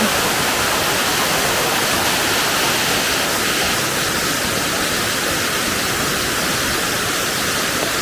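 Waterfall cascading: a steady, loud rush of falling water.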